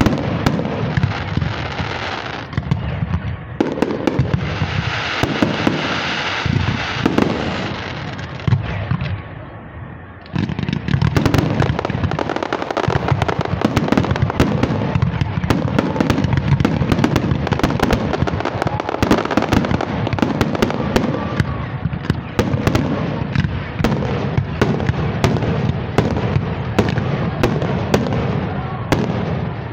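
Fireworks display: shells bursting overhead with a steady hissing crackle. About ten seconds in, it turns into a dense, rapid barrage of sharp bangs and crackling that keeps up to the end.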